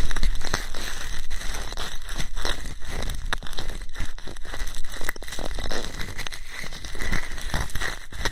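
Ear-cleaning ASMR: an ear pick scratching and rubbing close to the microphone, a dense run of crackling scratches and small clicks.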